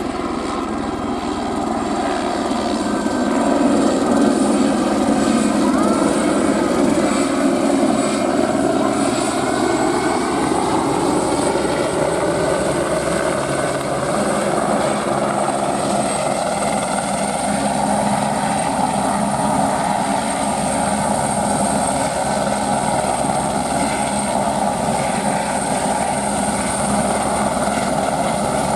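Airbus AS350 helicopter running loud and steady, its single turbine giving a thin high whine over the rotor noise. The pitch of the rotor sound sweeps over roughly the first ten seconds.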